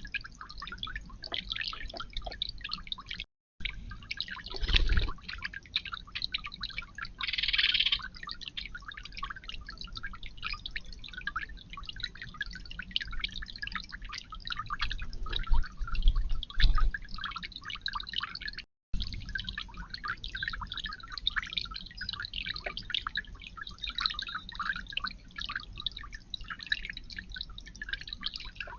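Water trickling and dripping steadily in a garden fountain or bird bath, a continuous patter of small drops. A short louder splash about a quarter of the way in, and a few low thumps.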